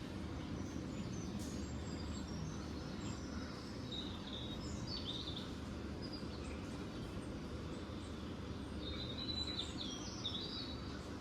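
Small birds chirping over a steady low background rumble, with two clusters of quick high chirps, one about four seconds in and another near the end.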